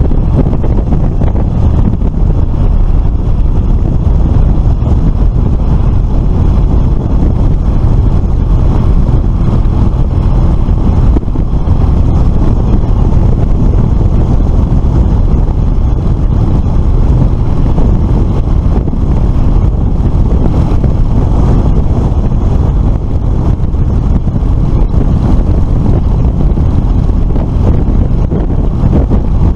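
Riding noise on a Suzuki FL125 Address scooter at speed: a steady, heavy wind rumble on the microphone over the running engine and road noise.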